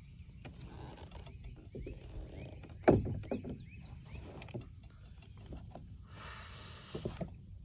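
Steady high-pitched drone of insects, with a sharp knock about three seconds in, a few softer knocks after it, and a brief hiss near the end.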